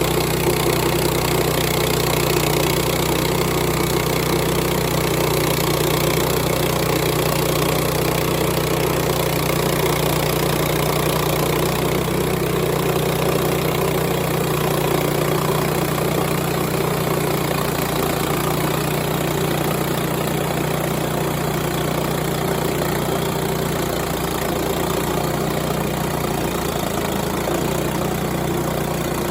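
Gasoline engine of a portable band sawmill running steadily at a constant speed while the mill saws a log.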